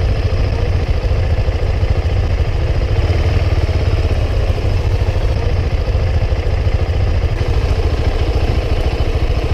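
Single-cylinder KTM Duke 690 motorcycle engine idling steadily with a rapid, even low thumping.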